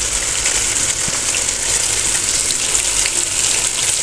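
Potato and eggplant masala sizzling steadily in a hot frying pan, with cold yogurt just spooned in.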